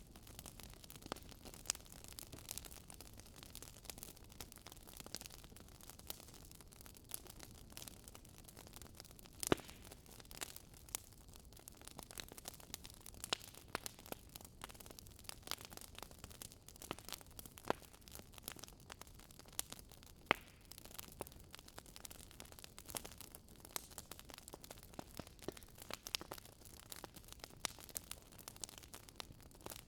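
Wood fire crackling in a fireplace: irregular sharp pops and snaps from the burning logs over a soft hiss, with a couple of louder snaps about a third and two thirds of the way through.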